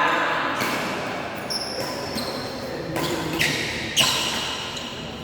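Badminton rally: rackets smacking the shuttlecock several times, the hit about four seconds in the loudest, with short high squeaks of shoes on the court floor.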